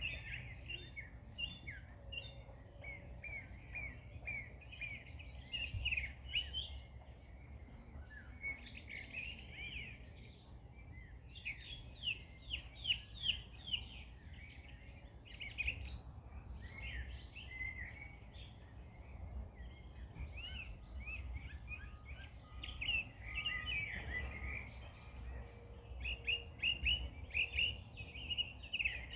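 Several small birds singing and chirping continuously, rapid high twittering trills, over a steady low outdoor rumble of wind.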